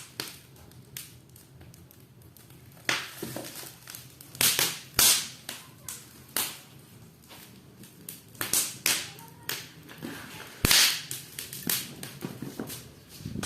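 Burning firewood in an open fireplace crackling and popping: irregular sharp cracks, a few of them loud snaps.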